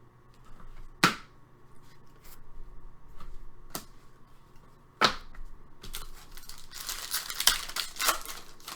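Trading cards being handled, with two sharp snaps, about a second in and about five seconds in, then a couple of seconds of crinkling and tearing as a foil card pack is ripped open.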